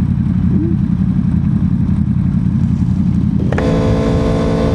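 Motorcycle ride with heavy wind buffeting on the camera microphone, a dense low rumble. About three and a half seconds in, the engine's note comes through as a steady hum.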